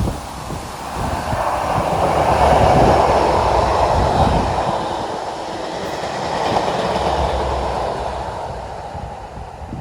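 A freight train passing at speed, with a steady rush of wheel and rail noise and rapid clatter of wheels over rail joints, swelling to its loudest about three seconds in and again about seven seconds in before fading near the end.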